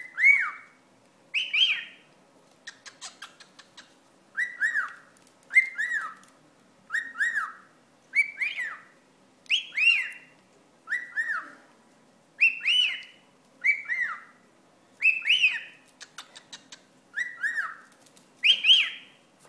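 Pet cockatiel giving short, sharp whistled calls over and over, about one a second, some in quick pairs, as it is annoyed by a wad of paper towel. A few faint clicks come between calls near the start.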